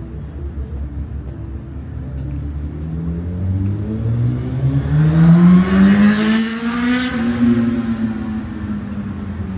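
A car's engine accelerating, its note rising steadily over several seconds and loudest as it goes past about five to seven seconds in, then holding a steady pitch.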